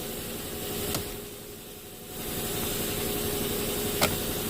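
Two sharp clicks from a plastic trim panel under a steering column as it is pried off its clips, about a second in and again near the end. A steady hum runs underneath.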